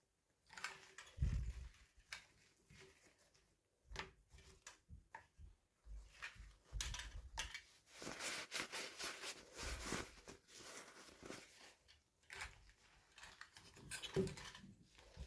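Close-up handling of small plastic toy packaging and pieces: scattered light clicks and taps, with a denser stretch of rustling in the middle.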